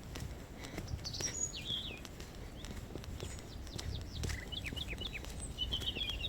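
Small birds chirping in short calls, with a quick trill near the end, over the regular footsteps of someone walking along a forest path.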